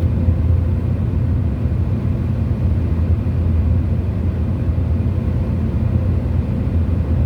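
Steady low road rumble of vehicles driving at highway speed, with no change through the stretch.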